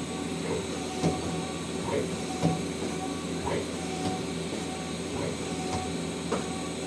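Mazak Quick Turn 200MS CNC turning center standing powered up, giving a steady machine hum with a few faint steady tones. Light, irregular clicks and knocks come about once a second.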